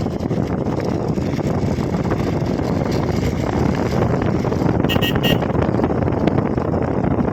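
Motorcycle riding noise, mostly wind rushing over the microphone. A vehicle horn gives three quick beeps about five seconds in.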